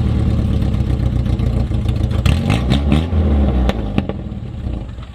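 Toyota Corona's engine running loud and deep through its newly fitted custom exhaust, just after start-up, with a few sharp exhaust pops between about two and four seconds in; it gets quieter near the end.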